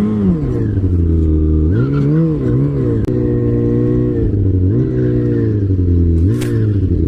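A vehicle engine revving up and down several times, holding steady between the revs.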